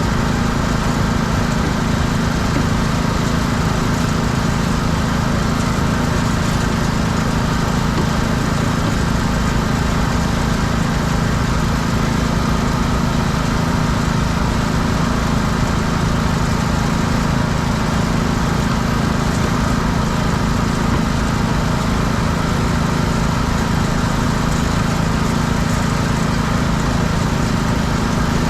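Small petrol engine of a pressure washer running at a steady speed, a loud, even drone with no change in pitch.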